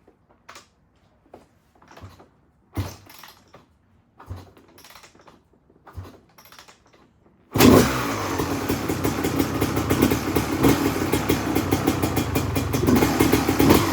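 A few scattered knocks, then about halfway through the 1994 Honda CR250R's freshly rebuilt two-stroke engine fires suddenly and keeps running steadily on choke. This is its first start after a full rebuild.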